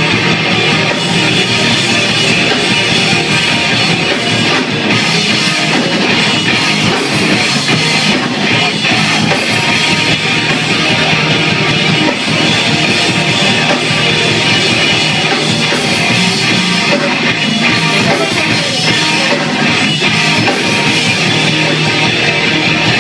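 Loud rock music: an instrumental passage of a band playing with guitar and drum kit, without vocals.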